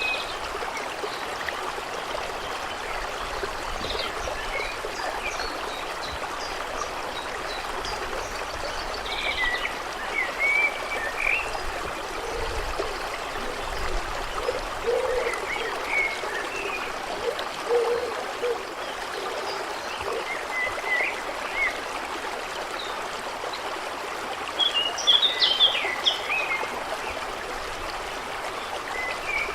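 A stream running steadily, with scattered bird chirps over it and a busier burst of chirping near the end.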